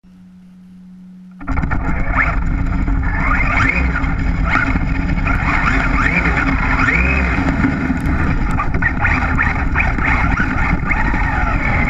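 Traxxas Rally RC car's electric motor whining up and down with the throttle, over a heavy rumble of tyres and chassis in slush, heard from a GoPro on the car's roof. The sound starts suddenly about a second and a half in, after a faint low hum.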